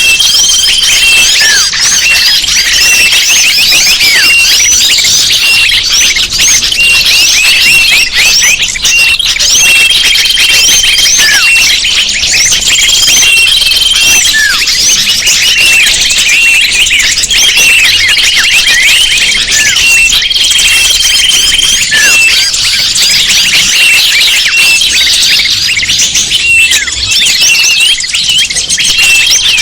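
Bird lure recording: a loud, dense chorus of many small birds chirping and twittering over one another, with short steady high whistles recurring every couple of seconds.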